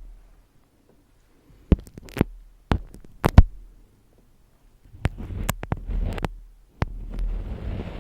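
Close-miked ASMR handling sounds: a few sharp taps and clicks spaced about half a second apart, then, after a short pause, scratchy rustling broken by more clicks.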